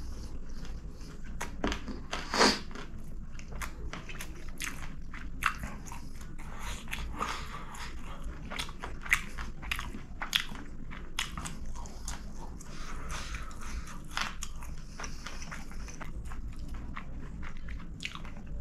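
Chewing and wet mouth sounds of a man eating a mouthful of chicken kottu by hand, with many small clicks and smacks throughout and one louder bite about two and a half seconds in.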